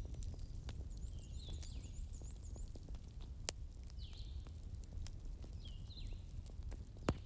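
Campfire burning with a steady low rumble and scattered crackles, two of them loud sharp pops. Small birds chirp repeatedly above it, and one gives a quick high trill of about six notes.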